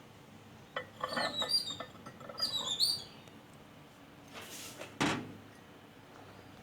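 A small bird chirping: several short, high chirps in quick succession, followed by a brief rustle and a sharp knock about five seconds in.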